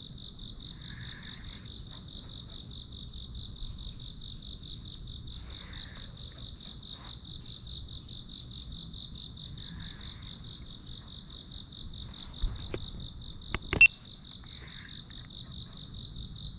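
Insect chirping steadily, a high, fast-pulsed trill of about five pulses a second. A couple of sharp clicks come about three-quarters of the way through, the second the loudest sound.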